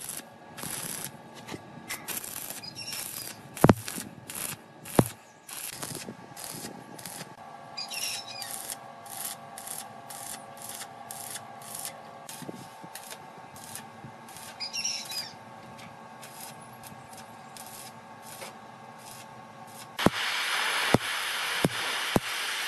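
Hand rubbing and scraping on metal, in irregular strokes with sharp clicks. Near the end a steady spraying hiss starts suddenly and is louder than the rubbing.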